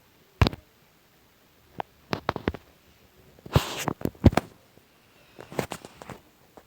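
Handling noise from a box being opened: a string of sharp, irregular knocks and clicks, with a short rustling or tearing burst a little past the middle.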